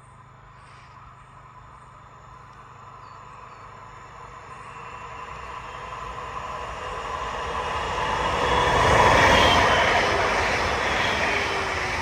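A train approaching and passing. It grows steadily louder to a peak about three quarters of the way through, then begins to fade, with a tone that drops slightly in pitch as it goes by.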